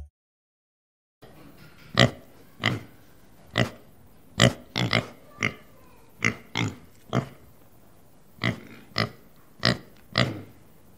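A pig grunting: about fourteen short, sharp grunts at irregular intervals, starting about a second in.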